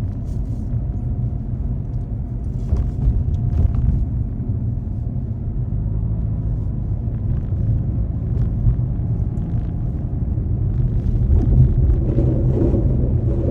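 Car driving, a steady low rumble of engine and road noise heard from inside the cabin, with faint scattered clicks over it.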